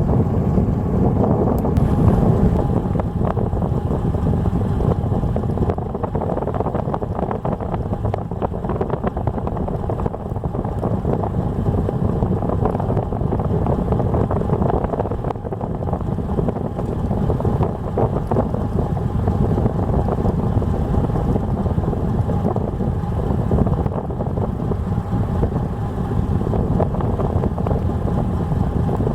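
Engine of a small fishing boat running steadily under way, with wind buffeting the microphone.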